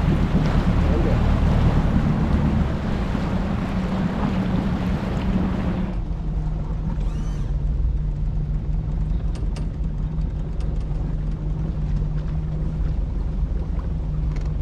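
Boat engine running steadily, with a heavy rush of wind and water for about the first six seconds. Then the sound changes suddenly to a quieter steady engine hum.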